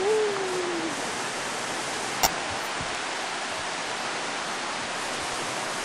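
Waterfall rushing: a steady hiss of falling water. A person's drawn-out call trails off, falling in pitch, during the first second, and a single sharp click comes a little over two seconds in.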